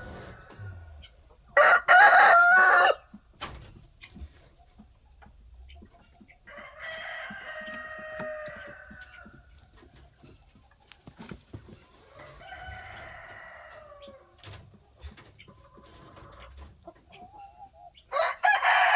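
Roosters crowing: one loud, close crow about two seconds in, two quieter crows in the middle, and another loud crow starting near the end, with small scattered clicks in between.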